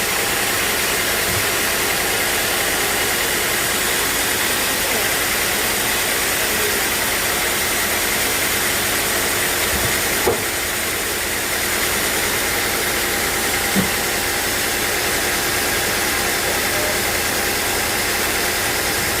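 Sawmill machinery running steadily: a dense, even noise with a hum, broken by two brief knocks about ten and fourteen seconds in.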